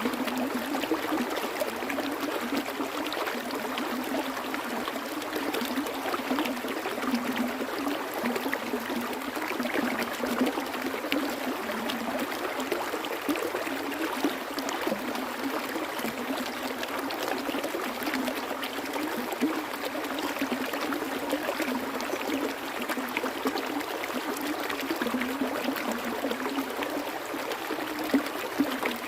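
Flowing stream water, a steady trickling and gurgling rush with no breaks.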